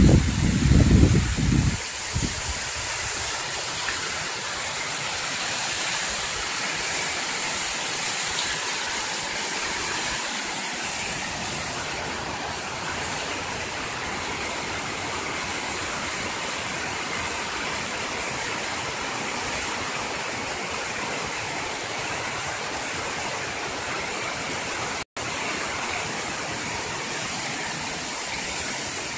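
Steady rushing of a waterfall, an even noise with no rhythm. A loud low rumble, like wind or handling on the microphone, covers the first two seconds, and the sound cuts out for an instant near the end.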